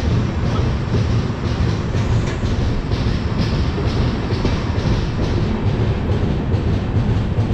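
Indian Railways express train running, heard from an open coach doorway as it pulls out of a station: a steady low rumble with a regular clickety-clack of the wheels over the rail joints.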